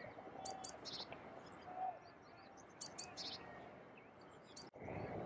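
Small songbird repeating a short, high-pitched phrase of a few quick notes twice, over faint outdoor background noise, which drops out briefly near the end.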